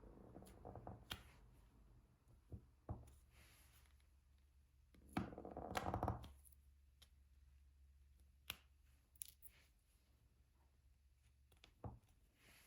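Faint, scattered clicks and taps of diamond painting: a drill pen picking up resin drills and pressing them onto the canvas. A louder rustle comes about five seconds in and lasts about a second.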